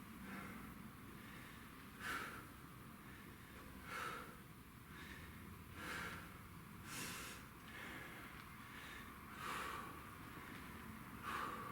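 A man's faint, sharp breaths out, recurring roughly every two seconds, as he works through a seated leg-circle core exercise.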